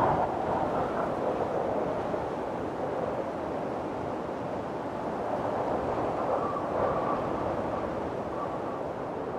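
Windstorm wind blowing in gusts, swelling and easing, with a faint high whistle in the second half.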